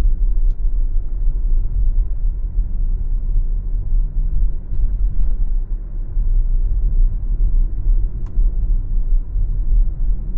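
Steady low rumble of a car driving: road, tyre and engine noise picked up by a dashcam, with a couple of faint clicks.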